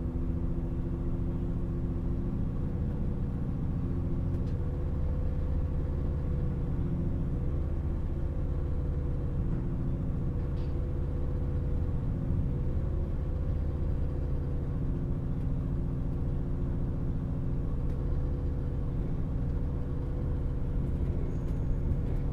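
Inside the carriage of a CrossCountry Voyager diesel multiple unit: the steady low rumble and hum of its underfloor diesel engine and running gear, with several held engine tones over the rumble.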